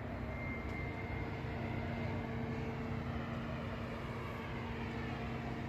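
A steady mechanical hum with a constant low tone and its overtone, over an even rushing noise.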